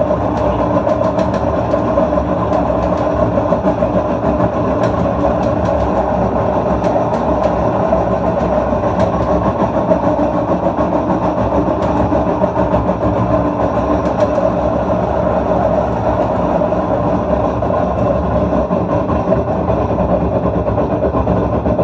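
LG washing machine running with a loud, steady rumble.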